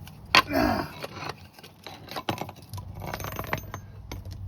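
A sharp knock about a third of a second in, likely a hammer driving a block of wood against the fuel pump's locking ring, followed by light metallic clicks and clinks of handling. The pump is being freed because it is suspected dead: no running sound could be heard from it.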